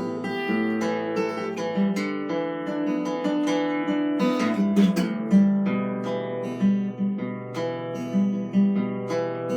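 Improvised solo music on a plucked string instrument: picked notes and strummed chords ring over a held low bass note.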